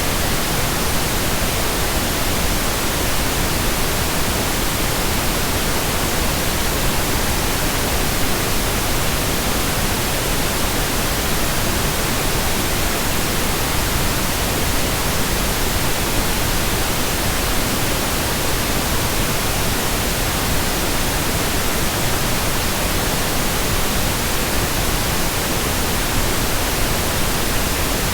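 Pink noise: a steady, even hiss with no changes or events.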